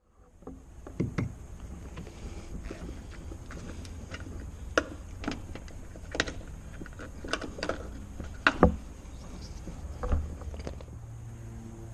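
Irregular clicks and knocks of hand tools and plastic and metal parts being worked on a car door, over a low steady hum.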